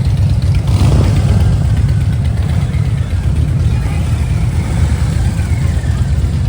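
Motorcycle engine running at idle, with a brief rev about a second in.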